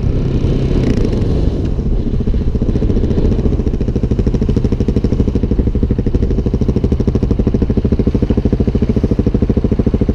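Motorcycle engine idling, a steady low, rapid and even pulsing that settles in after a rougher first couple of seconds.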